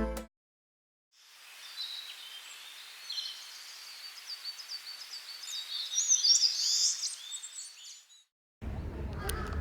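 Small birds chirping and twittering in quick, high calls and short falling whistles over a faint steady hiss, faded in and faded out. A steady low outdoor noise starts near the end.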